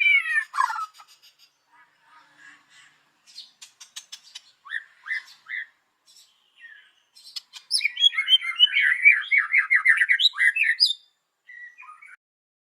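White-rumped shama (murai batu) singing: loud slurred whistles at the start, scattered clicks and short whistled notes, then a fast run of rapid chattering notes about eight seconds in. The song stops shortly before the end.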